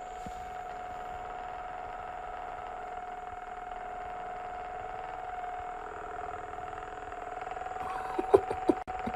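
A steady machine-like hum with a held tone and a faint high whine, then a few short sharp sounds near the end.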